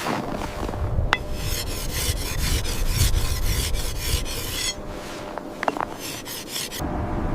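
Rapid, even rasping strokes, like a saw or rasp worked back and forth, at about five strokes a second. They come in one long run, then a short second run near the end.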